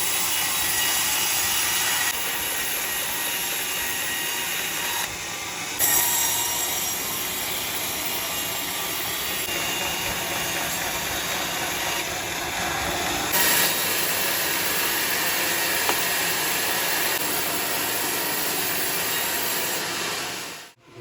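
Sawmill saw running and cutting teak timber, a steady noisy whine that changes level abruptly several times and drops away just before the end.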